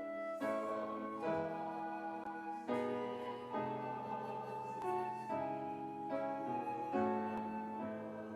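Slow instrumental keyboard music: held chords that change about once a second, with no singing.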